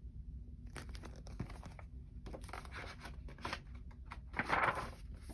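Crinkling and rustling of something being handled, in a string of irregular rustles with the loudest burst near the end.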